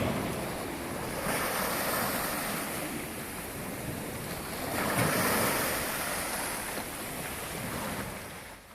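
Black Sea surf washing onto the shore, the rushing noise swelling twice about four seconds apart as waves break, with some wind on the microphone.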